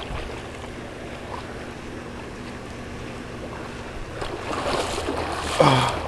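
Floodwater from a broken water main rushing through a street, with wind on the microphone and a faint steady low hum underneath. The water noise grows louder about four seconds in, and a short falling sound comes near the end.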